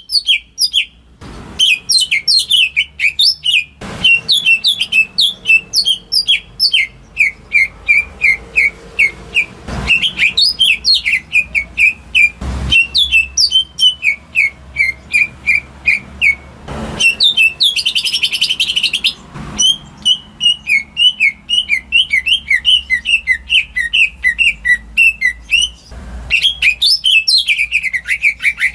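Green leafbird (cucak ijo) singing a fast, nearly unbroken chatter of sharp high chirps, with a harsh buzzy rattle a little past the middle. A few short knocks sound now and then beneath the song.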